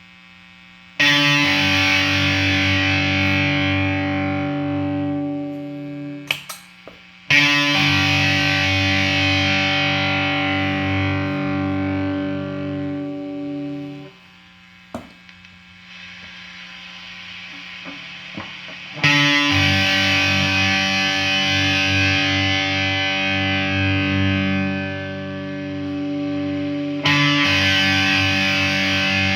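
Electric guitar played through a handmade compressor pedal: chords struck four times, about a second, seven, nineteen and twenty-seven seconds in, each left to ring out with long, even sustain. A few short clicks fall between the chords.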